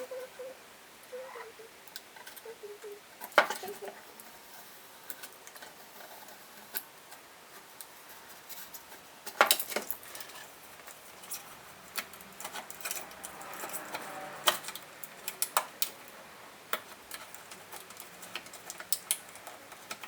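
Stanley utility-knife blade prying and scraping taped-on badges off a painted metal car panel: scattered sharp clicks and short scrapes, busiest around the middle.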